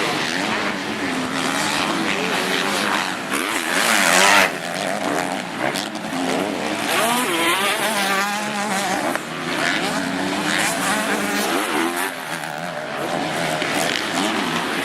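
Several motocross bikes racing, their engines revving up and down with the pitch rising and falling in overlapping notes, loudest about four seconds in.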